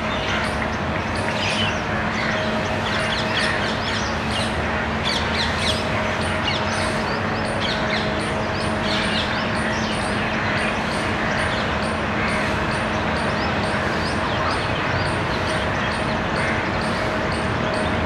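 Many short bird chirps and calls over a steady background hiss and low hum, with a faint, even high-pitched ticking throughout.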